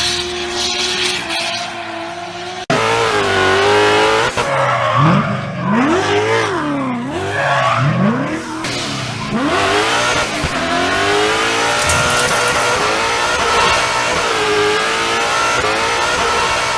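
Drift cars' engines at high revs, swooping sharply up and down in pitch as the throttle is blipped and held, over tyre squeal and skidding. The sound cuts abruptly to another car about three seconds in.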